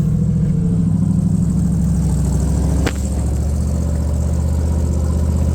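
1978 Chevy C30 dump truck's 350 small-block V8 running steadily under a heavy load. There is a sharp click about three seconds in, after which the engine note settles lower.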